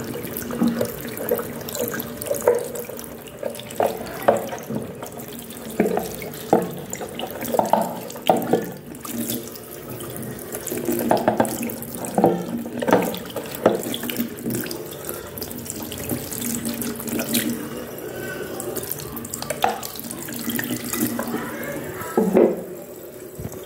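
Tap water running while the washing machine's inlet filter screen, clogged with sand and grit, is rinsed clean, with irregular splashes and small knocks as it is handled under the stream.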